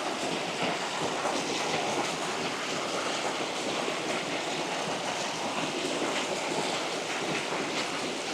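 Small waterfall rushing, a steady even wash of falling water that stays constant throughout.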